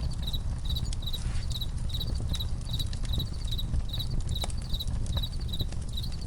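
Campfire crackling with scattered sharp pops over a low rumble, while a cricket chirps steadily about twice a second.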